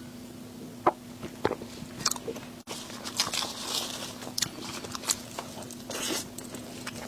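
A person biting and chewing crunchy food close to the microphone: a few sharp bites, then denser crunching in the middle, over a steady low hum.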